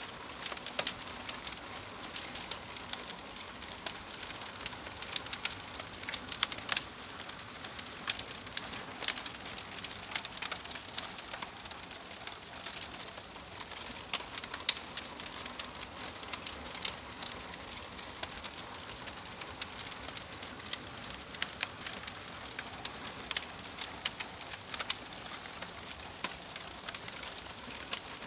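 Crackling fire: a steady hiss with irregular sharp pops and snaps.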